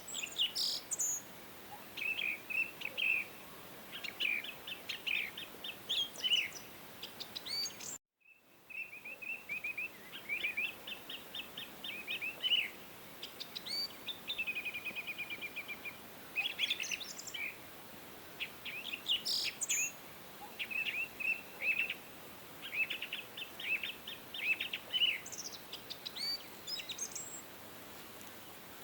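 Songbirds chirping and singing in quick trills and short phrases over a faint steady background hiss, with a brief cut to silence about eight seconds in.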